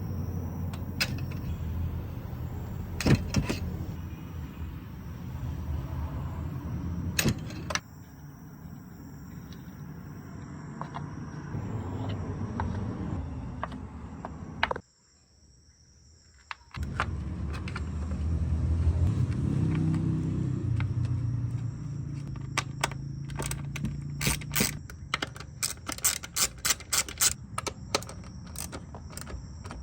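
Metal hand tools clicking and clinking while working on spark plugs in a car engine bay, over a steady low hum. The clicks come in a quick run in the last several seconds.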